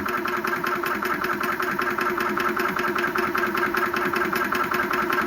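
Yong Heng 4500 psi high-pressure air compressor running steadily with a fast, even pulsing, pumping air into a storage bottle.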